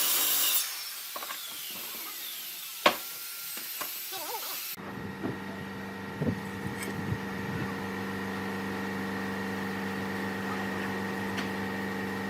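A rasping sawing or sanding noise on wood cuts off within the first second. A few light knocks follow, with one sharp tap about three seconds in. From about five seconds a steady workshop machine hum sets in.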